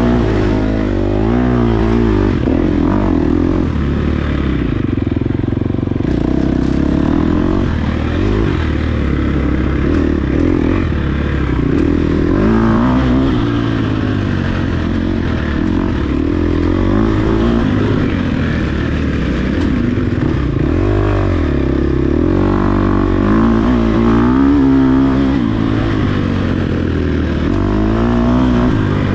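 Dirt bike engine running hard, its pitch climbing and dropping again and again as the throttle is worked through the gears.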